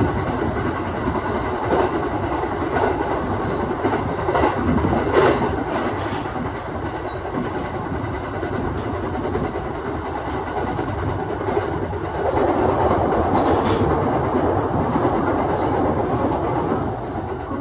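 Aoimori Railway 701 series electric train running along the line, heard from inside the front car. A steady rumble of running noise is broken by scattered clicks of the wheels over the track, and it grows a little louder about two-thirds of the way through.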